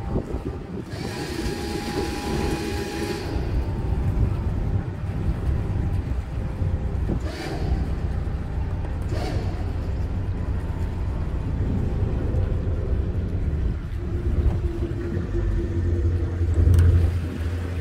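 A boat's engine running with a steady low rumble that grows louder near the end. There is a hiss for about two seconds near the start and two short rushes of noise midway.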